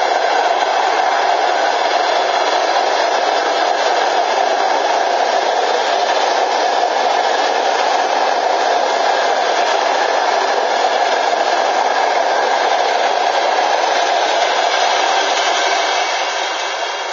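A passing train of passenger coaches: a loud, steady rushing clatter of steel wheels rolling on the rails, starting to fade near the end as the last coaches go by.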